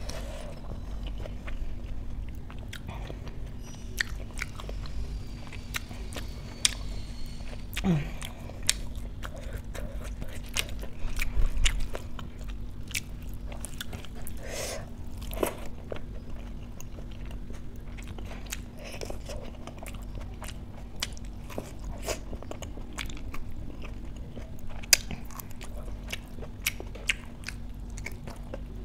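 Close-miked chewing of a hand-fed mouthful of rice and dal, with many short wet mouth clicks and lip smacks. About halfway through, fingers squish and mix rice into dal on a steel plate before the next mouthful.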